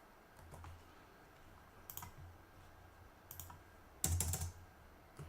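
Computer keyboard keys pressed a few times, with a louder cluster of keystrokes about four seconds in, over a low steady hum.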